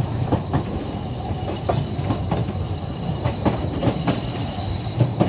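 Narrow-gauge railway carriage running along the track, heard from on board: a steady low rumble broken by irregular clicks and knocks from the wheels on the rails.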